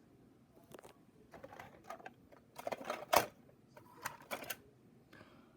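Scattered clicks, taps and rustles of hands handling HO scale model train cars, with a sharper knock a little after three seconds in.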